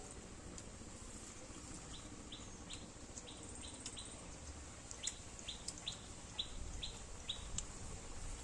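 A bird calling outdoors: two runs of short, high, downward chirps, about six notes each at roughly three a second, with a brief pause between the runs.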